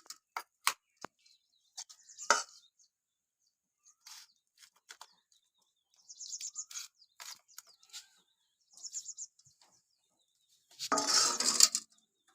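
Small metal clicks and taps of kitchen utensils, with short high bird chirps in the background and a louder clattering rattle near the end.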